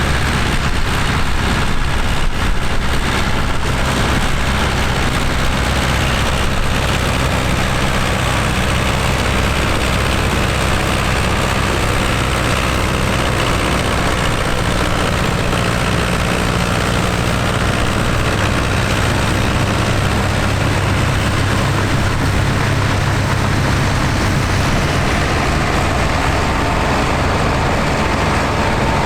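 Tractor engine running steadily close by with a low drone, its pitch shifting slightly partway through.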